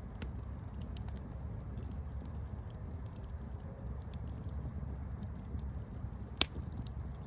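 Campfire burning with a steady low rumble, scattered small crackles and one loud sharp pop a little over six seconds in.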